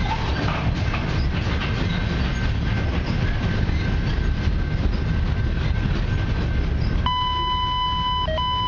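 Freight hopper cars rolling past at close range: a steady rumble of steel wheels on rail with a clickety-clack over the rail joints. About seven seconds in, a steady electronic beep tone starts, breaks off and dips briefly, then carries on.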